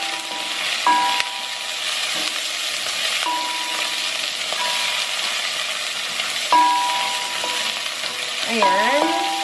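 Onions and garlic sizzling in hot oil in a nonstick pan while a spatula stirs them, with a few brief ringing tones over the steady hiss.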